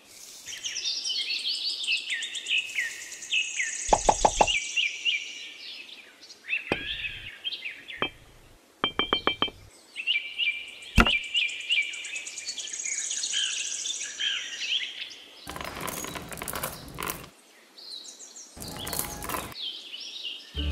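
Birdsong chirping, with a few sharp clicks as small plastic pieces are set down. Near the end come two short spells of rattling as small decorative pebbles are tipped out.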